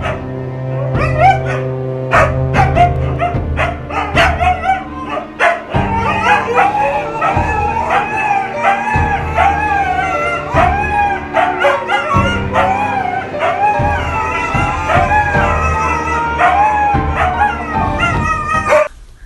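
A dog howling and yipping in short, repeated rising-and-falling calls over music with a steady bass.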